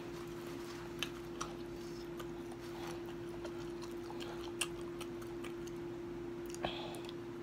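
A person chewing food with scattered soft mouth clicks and a few sharper clicks, over a steady hum.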